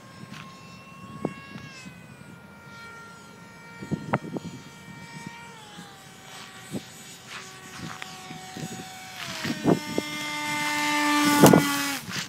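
Electric ducted-fan RC jet in flight, its fan giving a steady whine that steps down in pitch a few times as the throttle is eased back. Near the end it swells into a louder rushing whine as it passes close.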